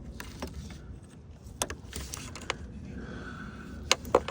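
Plastic EVAP line quick-connect clip being pressed and worked by hand: scattered small clicks and knocks, the sharpest two near the end, over a low steady background rumble.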